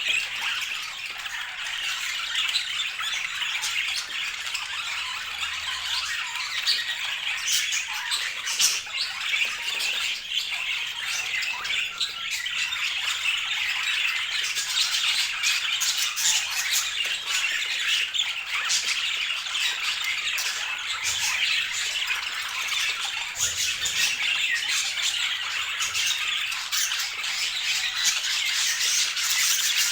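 Budgerigar chatter: a continuous, busy warble of high chirps and short sharp notes.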